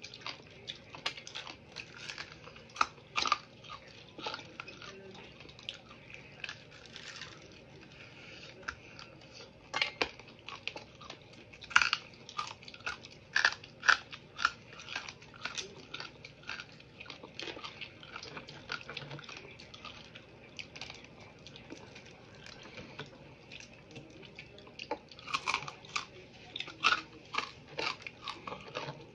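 Crispy fried chicken feet crunching as they are bitten and chewed, in irregular runs of sharp crackles with quieter spells of chewing between.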